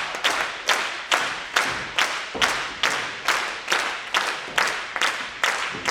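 Audience clapping together in a steady beat, a little over two claps a second.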